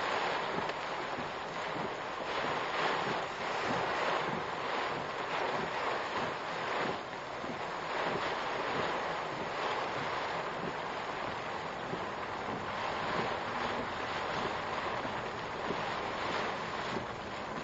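Typhoon wind gusting hard against a vehicle, heard through a dashcam's microphone as a dense hiss that swells and eases every second or two.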